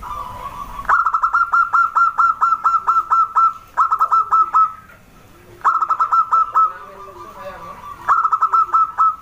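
Zebra dove (perkutut) calling: four runs of quick, clipped notes, about six a second, separated by short pauses.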